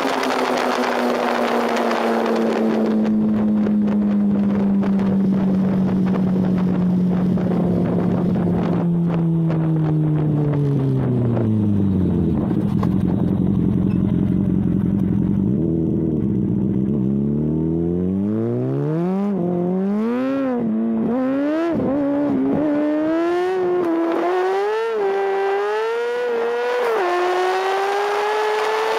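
Sport motorcycle engine winding down as the bike slows, settling to a low idle, then pulling away and accelerating hard, its pitch climbing and dropping at each of several upshifts.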